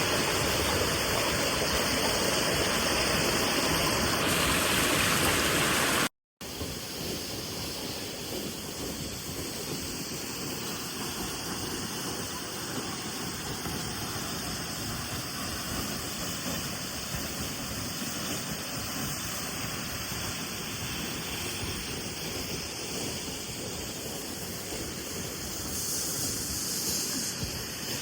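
Steady rush of water pouring down a waterfall. About six seconds in the sound cuts out briefly and comes back as a quieter, more distant rush.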